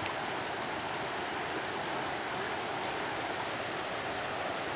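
Steady rush of the fast-flowing Katun river's current.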